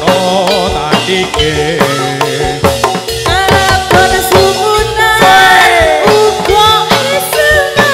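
Live Javanese gedruk (topeng ireng) accompaniment music: drums beat steadily under a melody that slides and bends in pitch.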